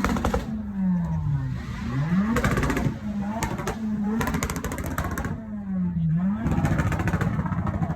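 Car engine being revved repeatedly, its pitch rising and falling several times, with rapid crackling on some of the revs.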